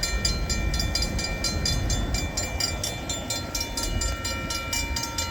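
Railroad crossing bell ringing in a fast, even rhythm of several strokes a second while the crossing gates rise after a train has cleared, over a low rumble.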